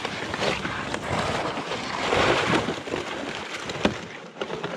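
Footsteps crunching and sloshing irregularly through wet snow and slush, with the loudest stretch about two seconds in.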